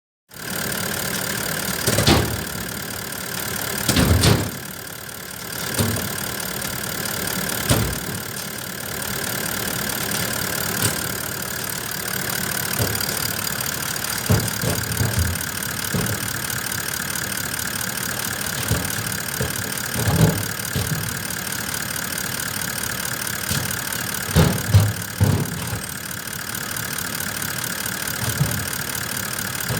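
Toyota Landcruiser 4.5-litre V8 diesel engine idling steadily, with several short louder surges scattered through, the loudest a few seconds in and near the end.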